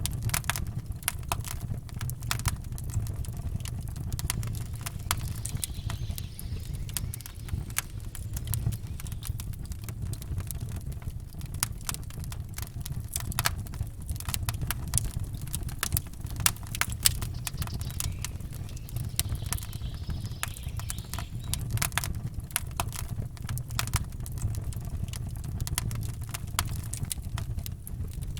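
Campfire crackling and popping, with many irregular sharp snaps over a low steady rumble.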